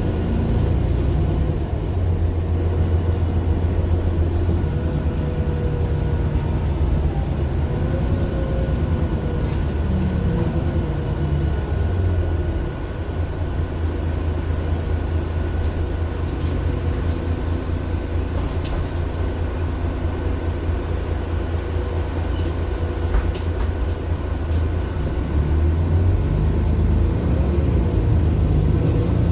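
Mercedes-Benz Citaro LE city bus's Daimler OM 457 hLA inline-six diesel running as the bus drives. The engine note eases about twelve seconds in and builds again near the end, with a faint steady high whine above it.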